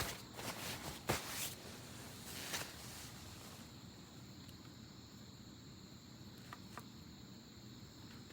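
Faint, steady trilling of crickets or other insects. A few sharp clicks sound in the first couple of seconds.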